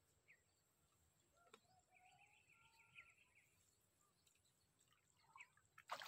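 Near silence outdoors, with faint bird chirps and a brief chattering call about two seconds in, and a rustling handling noise starting near the end.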